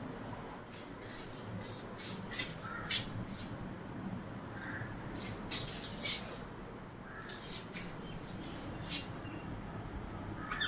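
Indian parrot pecking and nibbling at rice: quick runs of small, sharp, high clicks in three bursts, each lasting a second or two.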